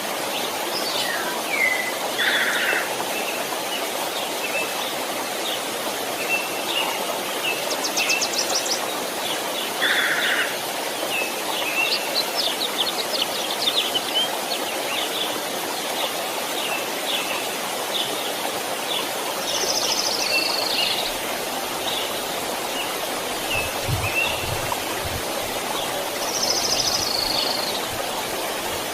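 Steady rush of a flowing stream, with birds chirping and calling over it throughout. A few brief low bumps come near the end.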